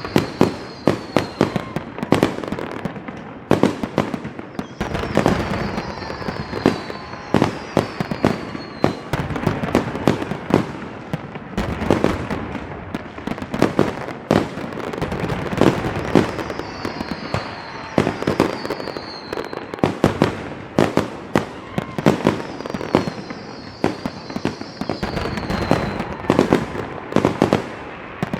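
Fireworks going off in a dense, irregular string of sharp bangs and cracks. Several short high whistles falling in pitch are heard among them.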